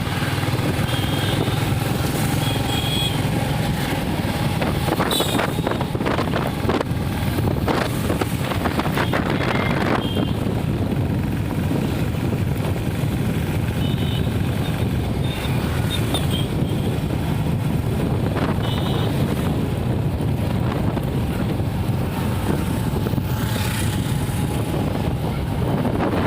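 Royal Enfield Classic 350's single-cylinder engine running steadily at road speed, under heavy wind noise on the microphone.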